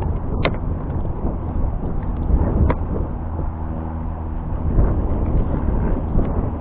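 Wind buffeting the microphone: a gusty low rumble that rises and falls, with two sharp clicks, about half a second and nearly three seconds in, and a faint hum for about a second in the middle.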